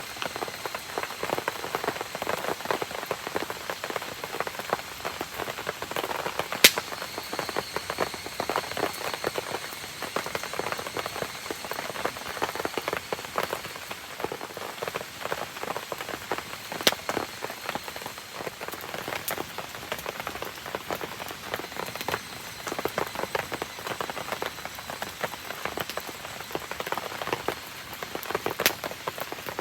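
Steady rain pattering on surfaces, with a few sharp pops from a wood campfire, about three of them spread across the stretch.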